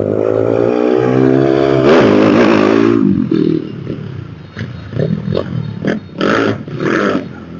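A motor vehicle engine running with its pitch sliding up and down, then a string of short, sharp bursts of sound in the second half.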